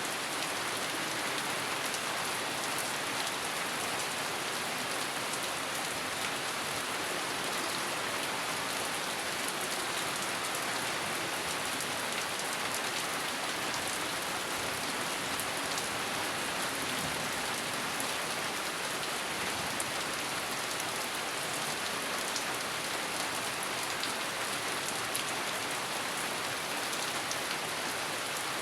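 Steady rain falling: an even hiss with faint scattered drop ticks, no thunder.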